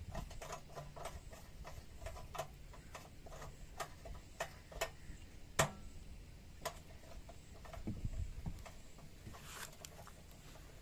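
Irregular light clicks and taps, one sharper knock about halfway through, over a faint low rumble.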